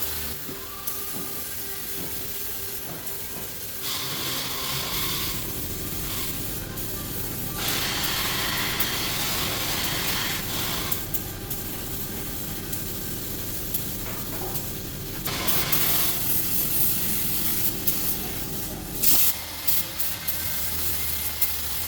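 Compressed air hissing in three bursts of a few seconds each, as in spray-gun or air-gun passes in an auto body shop, over a steady low hum.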